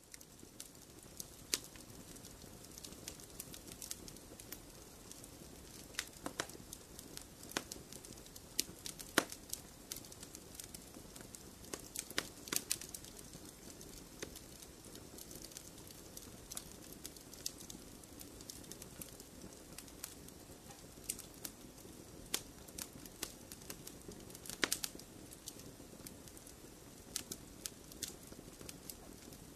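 Wood logs burning in a fireplace, crackling: irregular sharp pops and snaps, several a second at times, over a steady low hiss of the fire.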